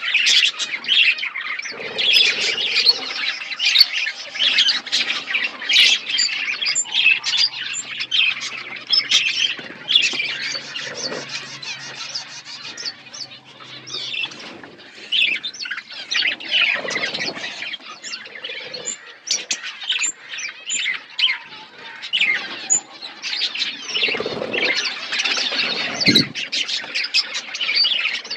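A colony of budgerigars chirping and chattering together: many short, overlapping high calls in a dense, continuous din.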